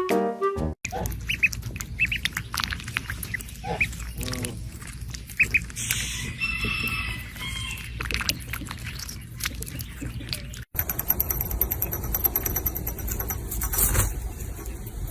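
Short bird calls, squawks and peeps, over handling and background noise, broken by an abrupt cut about two thirds of the way through to a steadier background noise.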